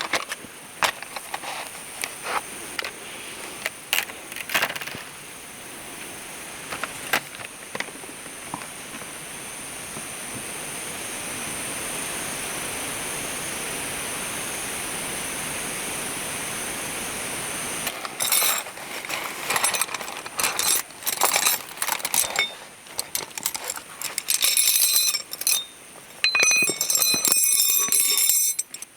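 Small metal items clinking and rattling: scattered clicks at first, then dense clusters of clinks and rattles with brief ringing through the second half, after a stretch of steady hiss.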